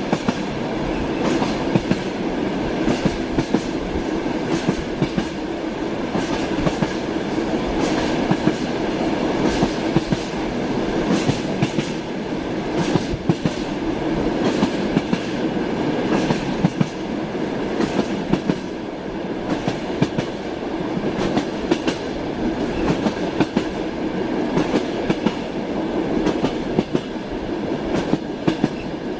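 Passenger train running, heard from inside the carriage: a steady rumble with frequent irregular clicks and knocks as the wheels clatter over the rails.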